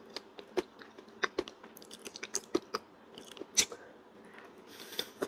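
A person biting and chewing soft, creamy Thai durian flesh close to the microphone: a quick, irregular run of wet mouth clicks and smacks.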